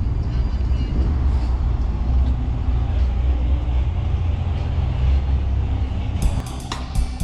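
Car engine running with a deep, steady rumble. About six seconds in, music with a drum kit and cymbals starts.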